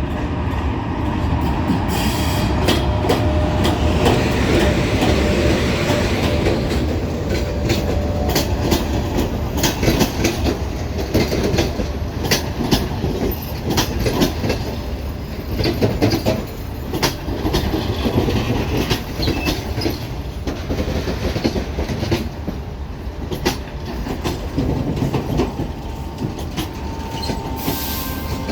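Express passenger train hauled by an EP1M electric locomotive arriving at a station, its wheels clicking over the rail joints as the cars roll past, with occasional thin brake or wheel squeals.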